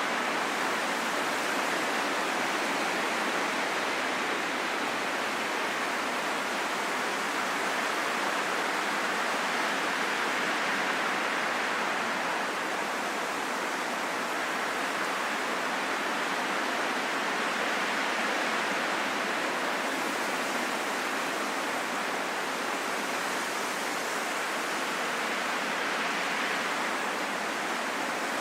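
Steady rushing wind noise, swelling and easing gently every several seconds.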